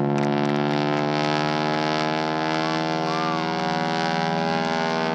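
Aircraft engine and propeller running steadily overhead, a strong buzzing tone whose pitch sags slowly.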